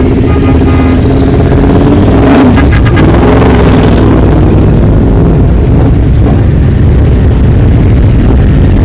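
A stream of motorcycles riding past, engines loud and steady, with one bike revving up about two to three seconds in.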